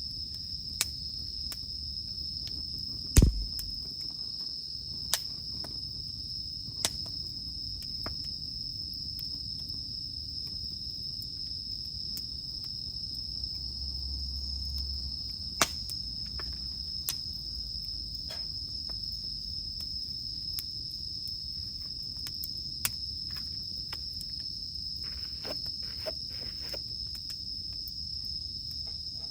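Wood fire crackling, with sharp pops at irregular intervals, the loudest about three seconds in, over a steady high-pitched drone of cicadas.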